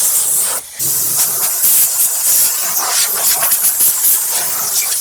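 A loud, steady hiss, dipping briefly about half a second in.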